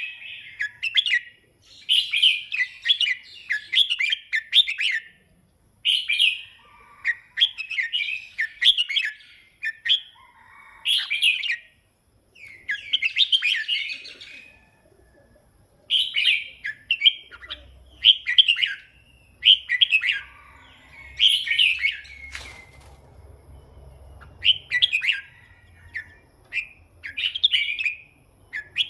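Red-whiskered bulbul singing: short, bubbling warbled phrases repeated over and over with brief pauses between them.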